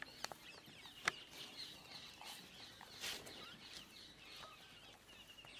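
Faint bird calls, chirping and clucking in the background, with two sharp clicks in the first second and a short burst of noise about three seconds in.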